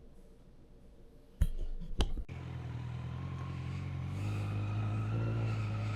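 Two sharp knocks, then a motorcycle engine catches and runs with a steady low hum that grows louder and rises a little in pitch near the end as it is throttled up.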